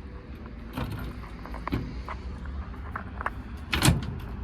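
Clicks and knocks from a fire truck's door being handled, with one loud knock near the end, over a low steady hum.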